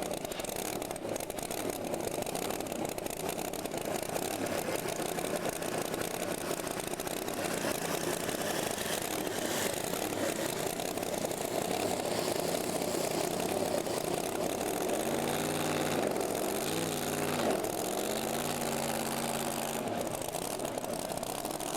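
Engine at a tractor pull running over a steady background rumble, blipped up and down in a few quick revs near the end.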